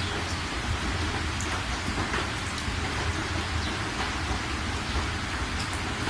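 Steady rain falling, a dense even hiss with individual drops ticking through it, over a continuous low rumble.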